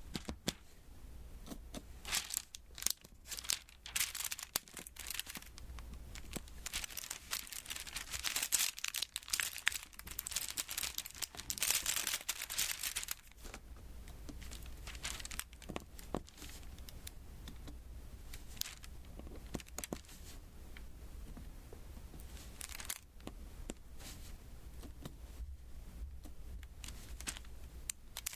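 Diamond painting close to the microphone: quick clicks and sticky crackling as resin drills are pressed onto the adhesive canvas. The crackling is busiest about 8 to 13 seconds in.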